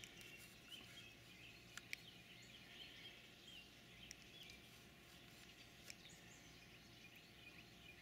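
Near silence with faint, scattered chirps of small birds and a few soft clicks.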